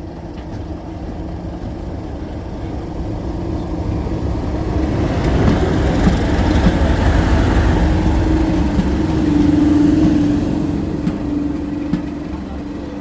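Class 37 diesel locomotive's English Electric V12 engine working hard, its deep rumbling thrash growing louder towards the middle and easing off near the end.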